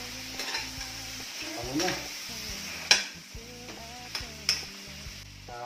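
Mud crab pieces frying in oil in a wok, sizzling steadily, while a metal spatula stirs them and scrapes and clanks against the pan several times; the sharpest clank comes about three seconds in.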